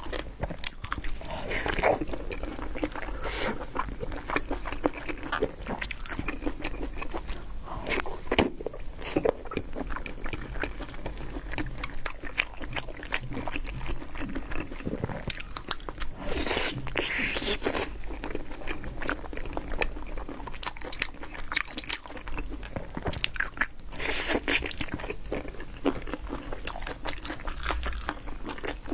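Close-miked eating of beef tendon: irregular biting and chewing with crunching clicks, going on without a break.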